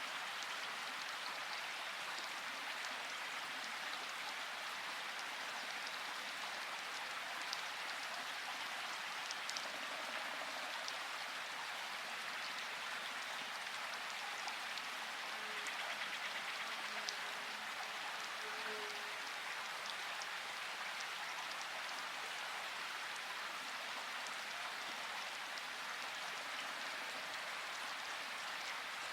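Steady rain falling, with a few sharper drop ticks here and there.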